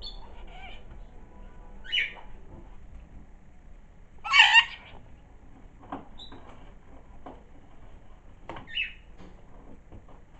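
Pet cockatiel making short, high calls: one about two seconds in, a louder one a little over four seconds in, and another about eight and a half seconds in.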